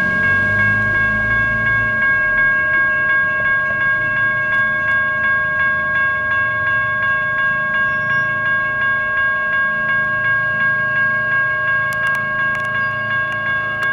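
Railroad crossing's GS Type 1 electronic bell ringing in rapid, even strokes on one fixed set of pitches, with a low rumble during the first couple of seconds.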